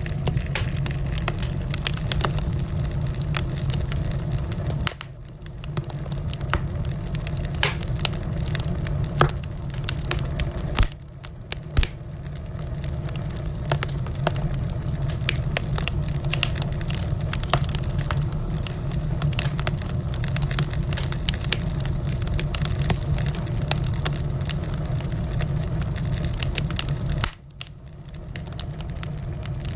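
Fire crackling in a fireplace: a steady low rumble of flames with frequent sharp pops and snaps. The sound drops away briefly three times, about 5, 11 and 27 seconds in, then builds back.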